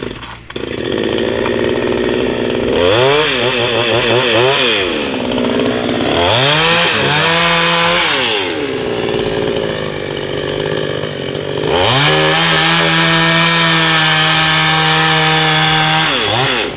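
Two-stroke petrol chainsaw running, revved up and down in several quick blips, then held at high revs for about four seconds before dropping back near the end.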